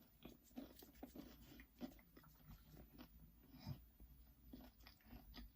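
Faint chewing: a person eating, with soft, irregular mouth clicks and small crunches.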